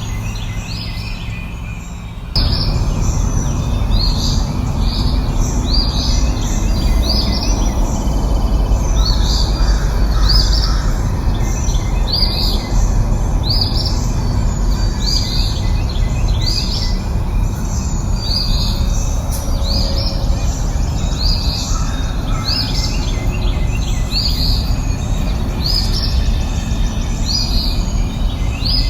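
Birdsong: a bird repeats a short high chirp a bit more than once a second, over a steady rushing noise that gets louder about two seconds in.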